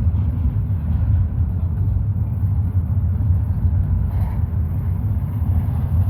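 CSX intermodal stack train rolling past with a steady, heavy low rumble.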